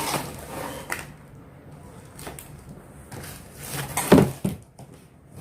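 A few short knocks and clunks of hard parts being handled and turned over, the loudest pair about four seconds in.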